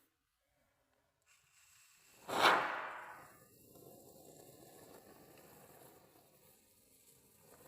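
A single sudden loud crack or smack that dies away over about a second, with faint noise after it.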